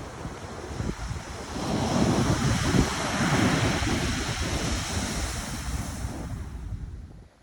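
Pacific Ocean surf: a wave breaks and washes up, swelling about a second and a half in and slowly easing off, then falling away near the end. Wind buffets the microphone throughout.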